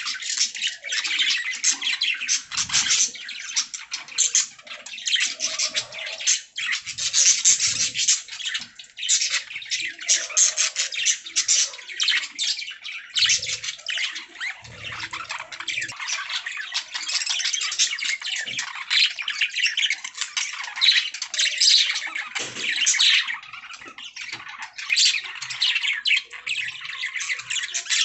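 Budgerigars chattering: several birds chirping, warbling and squawking over one another in a dense, unbroken stream of high, quick calls.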